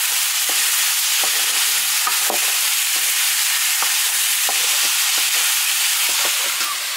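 Chicken pieces sizzling in hot oil in a metal wok while a metal ladle stirs them, scraping against the pan again and again at an irregular pace.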